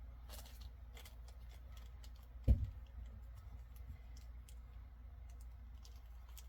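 Scattered light clicks and taps of small enamel pins and their packaging being handled, with one sharp low thump about two and a half seconds in.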